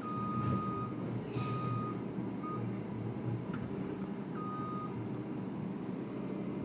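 Tractor's diesel engine running steadily under a single-tone reversing alarm that beeps four times, the beeps of uneven length. A short crunching noise about a second and a half in.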